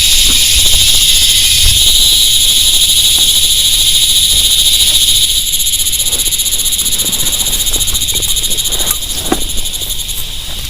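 Night chorus of rainforest frogs and insects: a steady, high, pulsing trill. A few sharp drip-like taps come near the end, and the chorus gets a little quieter about halfway through.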